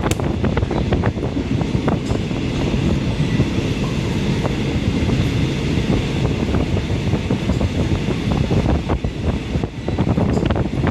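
Train running, heard from inside the passenger carriage: a steady low rumble with wind noise and repeated short rattles and knocks, thickest in the first couple of seconds and again near the end.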